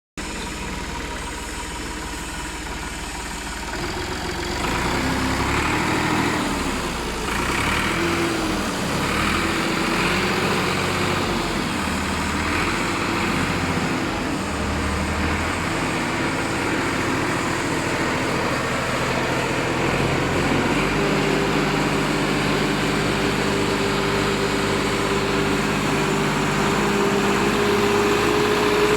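A Massey Ferguson 360 tractor's 2.5-litre three-cylinder diesel engine running. Its pitch rises and falls several times in the first half, then it settles to a steady run that creeps slowly higher.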